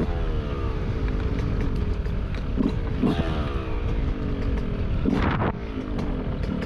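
Yamaha YZ125 single-cylinder two-stroke dirt bike engine revved repeatedly while riding: the pitch jumps up on the throttle and then falls away as it is let off, several times over.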